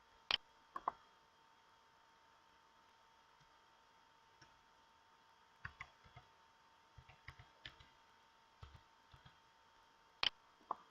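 Irregular sharp clicks over a faint steady hum: a loud pair near the start, a run of softer clicks in the middle, and another loud pair near the end.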